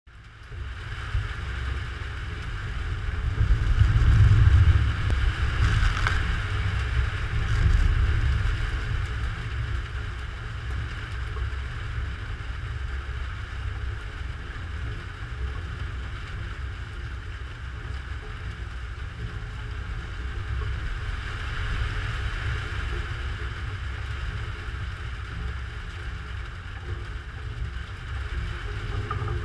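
Thunderstorm rumbling: a low, continuous rumble that swells to its loudest about four seconds in and again near eight seconds, then rolls on more evenly, over a steady hiss.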